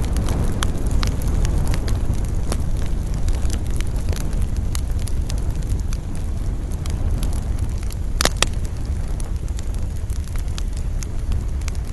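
Wood campfire burning, crackling and popping with scattered sharp snaps, two louder pops about eight seconds in, over a steady low rumble of wind.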